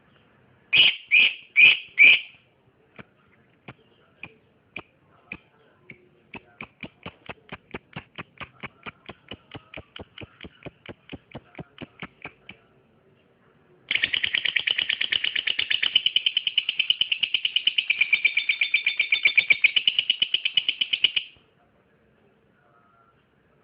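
Lovebird calling: four loud shrill chirps, then a run of short sharp chirps at about four a second, then a fast continuous chatter for about seven seconds that cuts off suddenly.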